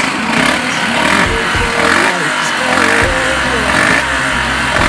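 Suzuki Grasstracker Bigboy 250's single-cylinder four-stroke engine running, its pitch wavering up and down with the throttle.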